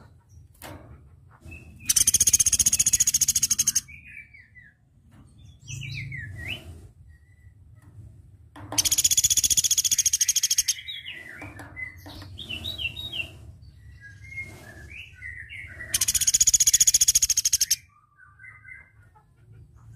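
Platuk beras (velvet-fronted nuthatch) singing: three loud, very rapid high trills of about two seconds each, roughly seven seconds apart, with softer chirps and short gliding notes between them.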